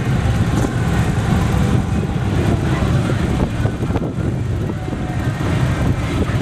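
Several motorcycle engines running together, a dense, uneven low rumble.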